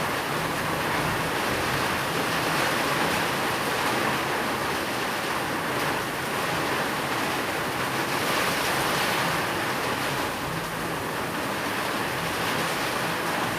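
Steady rain falling, a continuous even hiss with no breaks or single drops standing out.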